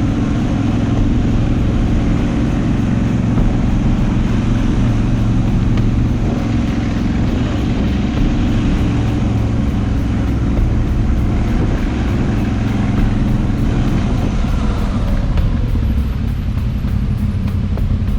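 Moto Guzzi V85TT's air-cooled V-twin running at a steady pace under way, over a rush of wind and road noise.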